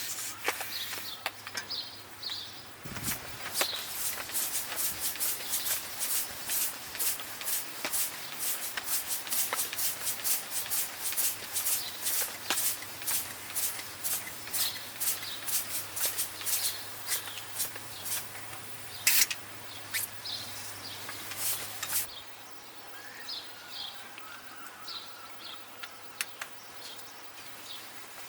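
Repeated hand-tool strokes on a bicycle part, about two a second, stop about 22 seconds in. Birds chirp before and after them.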